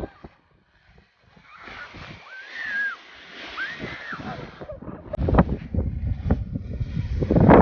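Blizzard wind buffeting the microphone. It grows louder and rougher from about five seconds in, with two short high rising-and-falling cries a little before.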